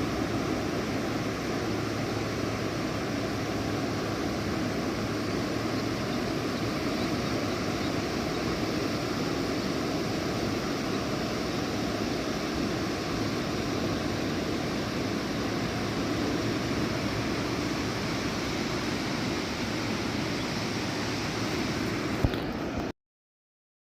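Steady rushing noise with no rhythm, which cuts off abruptly near the end.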